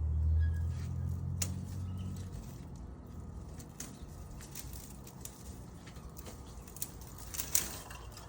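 Grapevine pruning sounds: rustling of leaves and stems with scattered sharp clicks and snaps, the loudest cluster near the end. A low rumble lies under the first couple of seconds.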